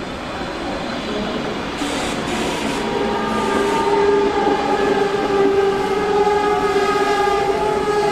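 Train moving through the station, getting louder, with a steady high whine of several pitches setting in about three seconds in.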